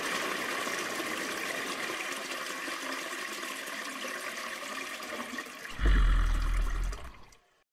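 Rushing, draining water like a toilet flush, a hiss that slowly fades. A loud deep rumble comes in about six seconds in, and the sound then cuts off.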